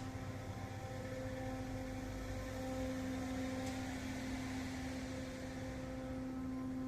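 Steady droning hum, one constant pitched tone with its overtones over a low rumble, which the recorder takes for a helicopter.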